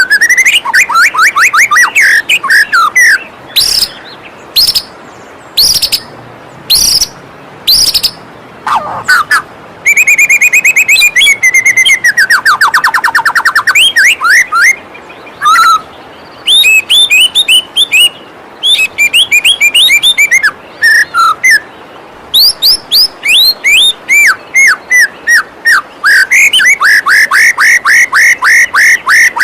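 White-rumped shama singing a fast, varied song of rapid chirps, whistled notes and trills, ending in a rapid run of repeated notes, over the steady rush of a waterfall.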